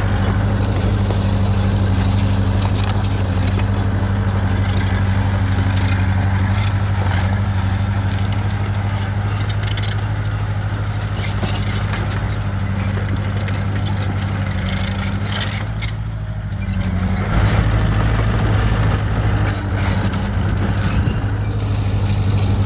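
Bulldozer's diesel engine running steadily with metallic clinking over it. It eases off briefly about two-thirds of the way through, then comes back up louder.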